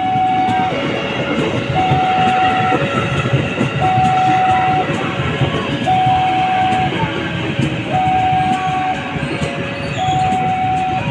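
Railway level crossing warning alarm sounding a steady alternating high-low two-tone, switching about once a second, while a train passes with loud wheel rumble and clicks over the rail joints.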